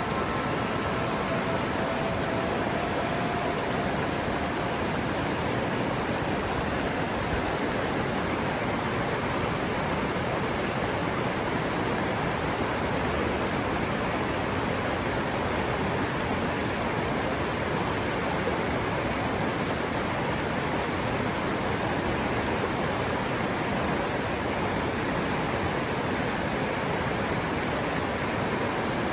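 River water running, a steady, unbroken rush. A few faint steady tones fade out within the first few seconds.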